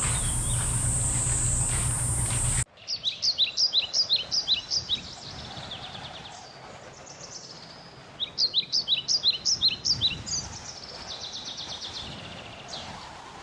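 A steady loud noise with a high hiss and a low hum, cut off suddenly about two and a half seconds in. Then a bird sings: quick runs of short falling chirps in two bouts, with softer trills between, fading out at the end.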